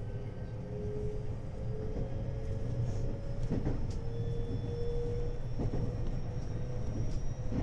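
521-series electric multiple unit running between stations, heard inside the carriage: a steady low rumble of the wheels on the track with a motor whine that edges up in pitch, and a few light clicks from the rails.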